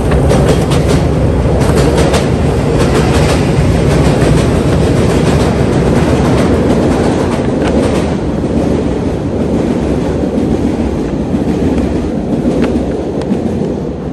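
Chicago rapid-transit train passing close by, its wheels clattering over the rail joints in a loud, steady rumble that eases a little over the last few seconds.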